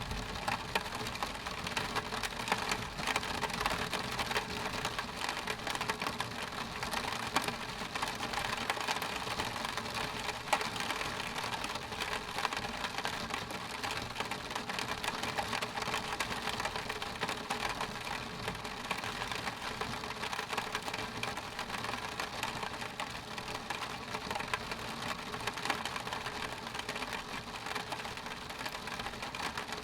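Rain hitting window glass: a steady, dense patter of many small drop ticks that holds at one level throughout.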